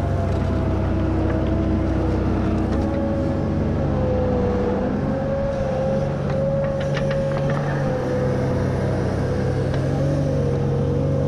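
Tractor engine running steadily under load while pulling a plough, a steady drone with a whine above it that wavers slightly in pitch.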